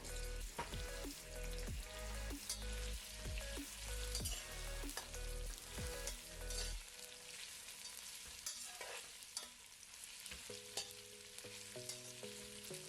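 Sliced onions frying in hot oil and ghee, sizzling steadily, with a spatula stirring and knocking against the pan in the first half.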